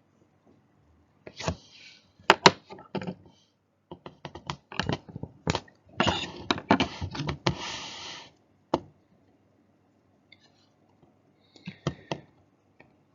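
Handling noises: a series of sharp clicks and knocks, with a stretch of rustling scraping about six to eight seconds in.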